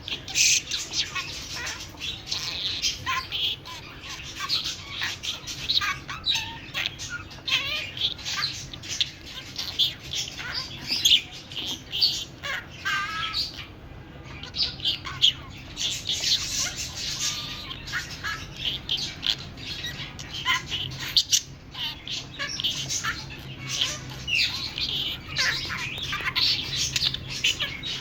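Budgerigar chattering and warbling without a break, a dense stream of quick high chirps and squawks.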